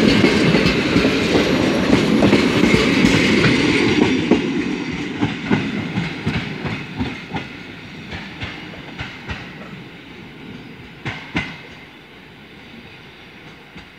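Passenger coaches of a departing train rolling over the track, wheels clacking over rail joints. The loud rumble of the passing coaches gives way after about four seconds to a run of separate clacks that grow fainter as the last coach pulls away, with a louder pair of clacks about eleven seconds in.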